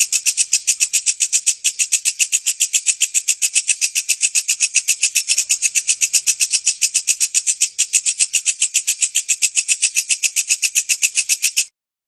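Walang kecek insect singing: a steady, rapid pulsed chirring at about eight pulses a second, high-pitched. It cuts off suddenly near the end.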